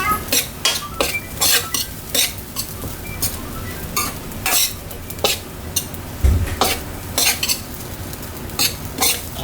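Metal spatula scraping and clanking against a pan over steady sizzling as fried rice is stir-fried, in irregular strokes about twice a second, with one duller knock about two-thirds of the way through.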